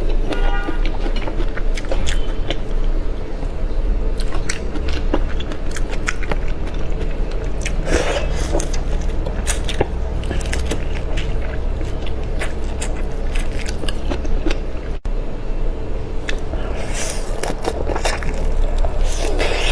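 Close-miked biting and chewing of whole soy-marinated shrimp, the shells crunching with many small cracks and clicks, over a steady low hum.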